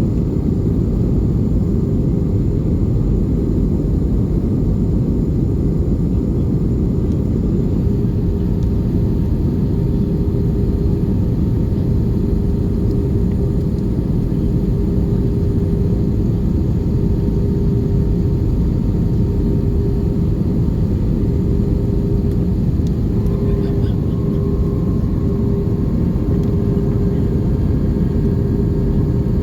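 Airbus A320 cabin noise: a steady, loud rumble of the engines and airflow, heard from inside the cabin, with an even hum running through it.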